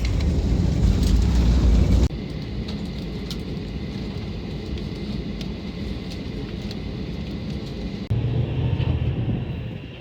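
Train running on the rails: a steady low rumble with occasional clicks. It drops sharply about two seconds in and swells again for a moment near the end, as if separate shots were cut together.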